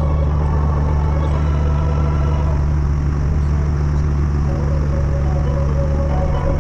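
Tractor engine running at a steady, even speed, with a loud low drone.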